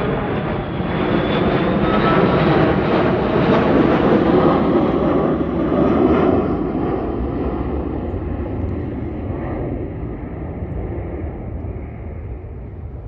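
Firefighting airplane flying low past, its engine noise building to a peak within the first few seconds and then slowly fading as it moves away.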